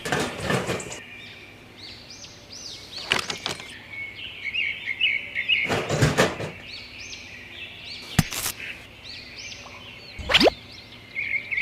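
Small birds chirping steadily in the background, with several separate knocks or thumps and one quick rising whoosh near the end.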